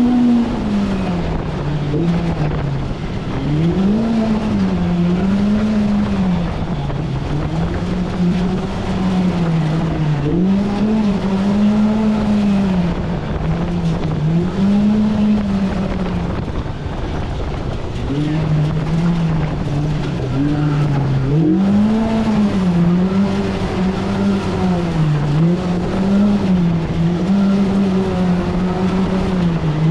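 The Polaris RZR Pro R side-by-side's 2-litre four-cylinder engine, revving up and easing off over and over as it is driven hard along the trail. The pitch climbs and drops every second or two, with a somewhat steadier stretch around the middle.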